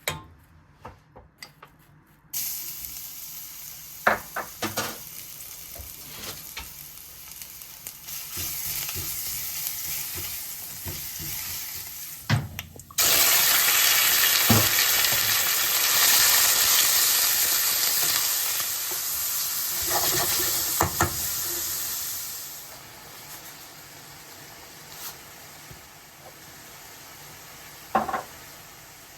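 Food sizzling as it fries in a pan, with a few short knocks and scrapes of a utensil stirring it. The sizzle starts suddenly about two seconds in, jumps much louder about halfway through, then dies down to a faint hiss a few seconds later.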